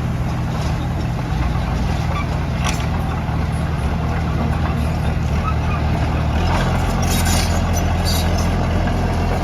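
Heavy diesel engine of earth-moving machinery running steadily; its low note shifts and grows stronger about six and a half seconds in. There is a sharp click near the three-second mark.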